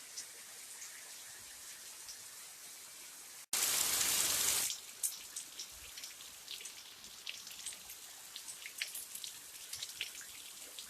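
Rain falling, with many individual drops ticking close by. About three and a half seconds in, the sound cuts out for an instant and a loud hiss follows for about a second, before the rain and dripping drops carry on.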